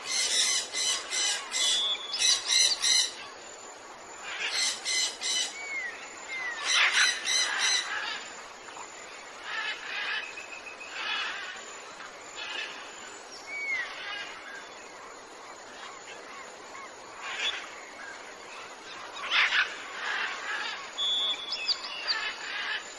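Several birds calling: bouts of rapid repeated calls with short whistled notes in between, over a faint background hiss.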